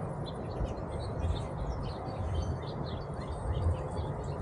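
Small birds chirping many times over a steady low rumble of breeze on the microphone.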